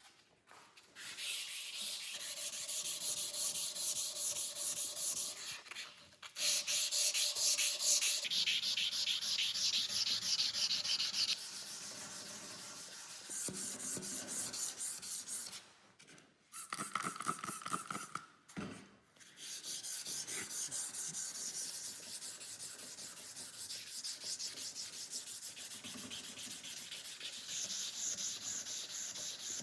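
Abrasive paper or a sanding block rubbed fast back and forth over a steel knife blade, in quick even strokes, stopping and restarting several times.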